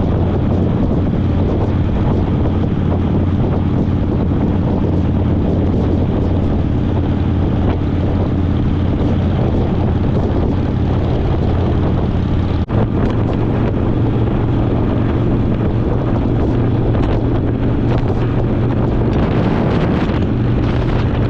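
Harley-Davidson Fat Boy V-twin running steadily at road speed, with wind buffeting the microphone. About two-thirds through the sound breaks off for an instant, and the engine note then sits slightly higher.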